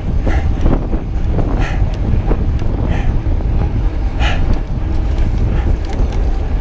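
Wind buffeting the microphone and road noise while riding an electric bike. There is a steady low rumble, with short rattles and scrapes every second or so.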